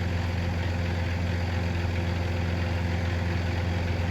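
Boom truck engine running steadily at a constant speed while the truck's crane holds a timber beam, a deep even hum with no change in pitch.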